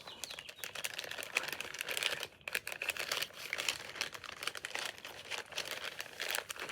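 Plastic MRE packaging being handled, with irregular crinkling and small crackles and clicks.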